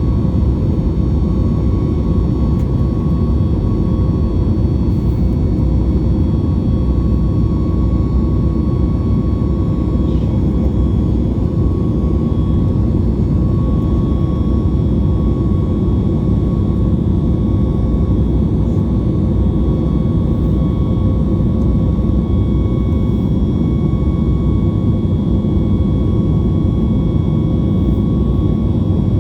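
Boeing 737 MAX 8 cabin noise during climb-out: the CFM LEAP-1B turbofans at climb thrust give a steady, loud roar, with a few steady whining tones over it.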